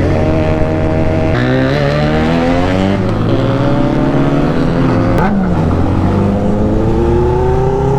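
Benelli motorcycle engine running hard under throttle. Its pitch drops and rises a few times, then climbs steadily over the last few seconds as it accelerates.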